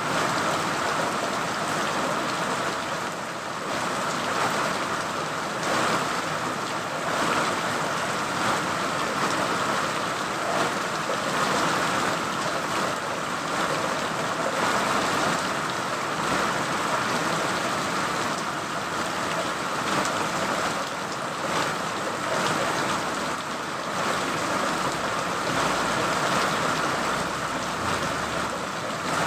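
Steady rain falling, an even hiss that neither builds nor stops.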